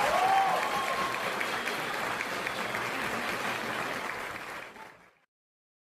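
Audience and cast clapping together in a collective round of applause, with a brief cheering voice at the start. The applause fades and the sound cuts off about five seconds in.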